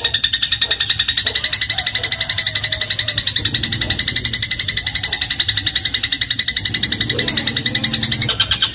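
A sparrow (burung gereja) giving a fast, unbroken trill of repeated notes, about a dozen a second, jumping a little higher in pitch near the end. This is the rapid 'crot' sparrow song used as tutor material for shrikes.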